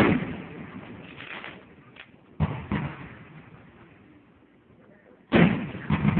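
Fireworks going off: a loud boom right at the start, another about two and a half seconds in and a third near the end, each followed by smaller cracks and trailing off in echo.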